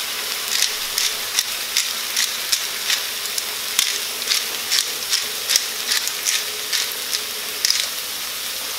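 Thick potato rounds frying in olive oil in a frying pan: a steady sizzle with sharp crackles about two or three times a second.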